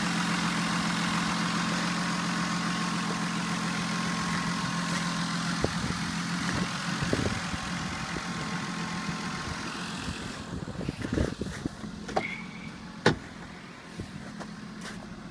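2000 Ford Taurus Duratec 24-valve V6 idling steadily. About ten seconds in it becomes quieter, and several short knocks and one sharp click follow near the end.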